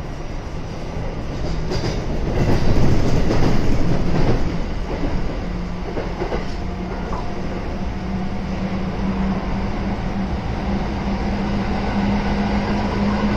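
Kintetsu 7000 series electric train running, its early Hitachi GTO-VVVF traction motors giving a steady low hum that grows stronger in the second half. Wheel and track noise swells about two seconds in, with a few clicks of wheels over rail joints.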